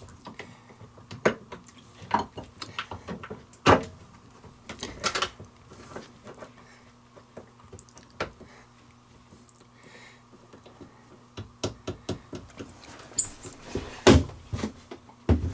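Irregular clicks and knocks from the cap and wing nuts of a Perko raw-water strainer being fitted and tightened back in place by hand. The loudest knocks come near the end.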